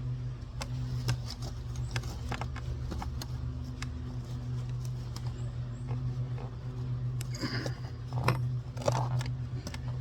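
Scattered metal clicks and scrapes of a tyre lever working a dirt-bike tyre's bead onto the wheel rim, over a steady low hum.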